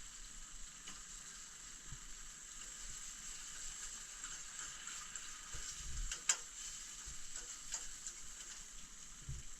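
Eggs frying in butter in a pan on a stove: a steady, faint sizzle with a few crackles.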